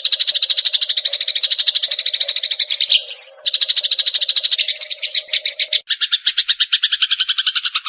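Sparrows chattering in a dense stream of rapid, repeated chirps, the excited calling of sparrows fighting. There is a short break about three seconds in, the chirps shift lower after about six seconds, and the sound cuts off abruptly at the end.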